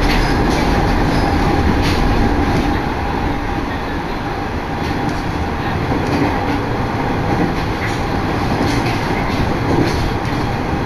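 Train running, heard from inside the passenger carriage: a steady rumble with faint steady tones and occasional sharp clicks from the wheels on the track.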